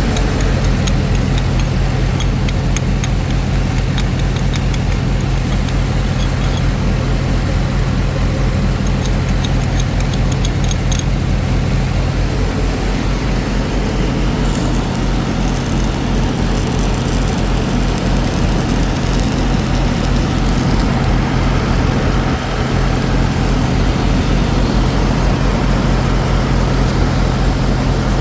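An engine running steadily with a constant low hum, its loudness unchanging. Faint rapid ticking rides over it through roughly the first half.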